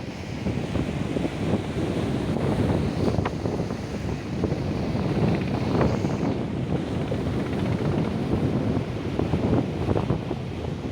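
Strong wind buffeting the microphone over the steady rumble of heavy surf, with gusts that come and go throughout.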